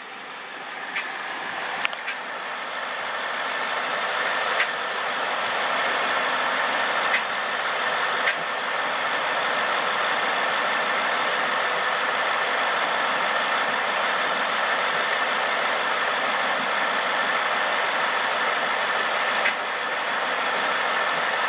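2011 Ford Mustang GT's 5.0 V8 idling with the ticking that the owner says has been there since day one and can't explain, though to him it doesn't sound right. The sound grows louder over the first few seconds, then holds steady, with a few sharper clicks standing out.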